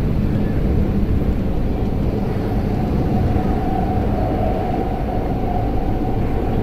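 Passenger train running, heard from inside the carriage: a steady rumble of wheels on the rails, with a faint whine that comes in for a few seconds midway.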